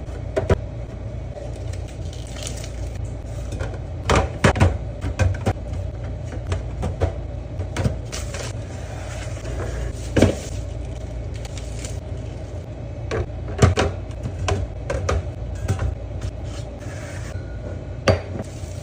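Containers and jars being handled and set down while a refrigerator is stocked: irregular taps, clicks and clinks of hard items, a few louder knocks among them, over a steady low hum.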